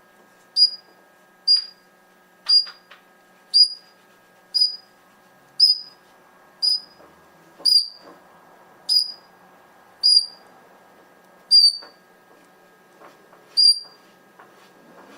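Pet parrot whistling: about a dozen short, high single notes, each dipping slightly at the end, repeated roughly once a second and spacing out toward the end.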